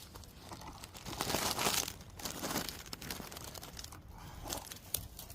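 Irregular rustling and crunching noises in uneven bursts, the loudest about a second in.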